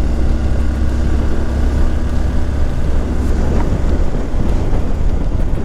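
Vehicle engine running steadily while on the move, with a heavy low rumble and rushing wind noise on the microphone.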